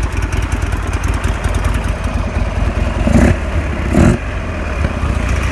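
A 2009 Buell XB12SS Lightning's 1202cc fuel-injected V-twin idling, with two short throttle blips about three and four seconds in.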